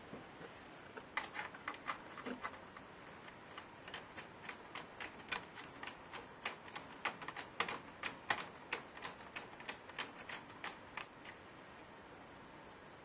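Irregular series of light, sharp clicks, several a second, starting about a second in and stopping near the end.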